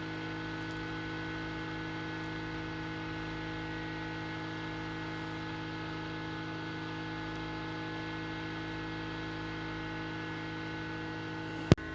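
Steady electrical mains hum made of several level tones, with a single sharp click near the end.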